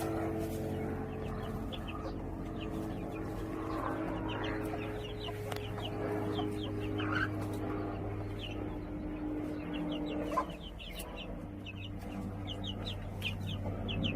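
Chickens clucking softly over a steady low hum, with quick high chirps that come thicker near the end.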